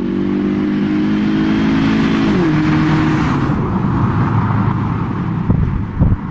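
2006 Honda Civic Si's modified four-cylinder engine, with aftermarket exhaust and Injen intake, pulling with a slowly rising note that steps down in pitch about two and a half seconds in, then keeps running amid growing road noise. Wind buffets the microphone near the end.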